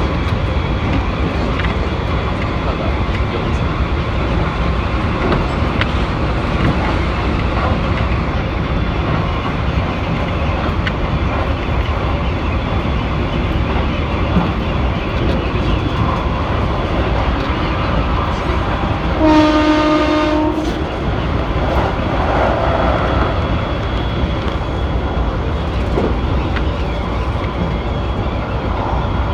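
Keikyu electric train running, heard from inside the car: a steady rumble of wheels and motors. About twenty seconds in, a train horn sounds once, a single held tone lasting about a second.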